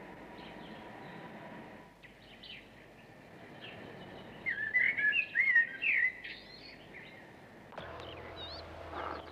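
Small birds chirping and twittering in short, quick phrases over a faint background hiss; the calls are loudest about halfway through, with a few more near the end.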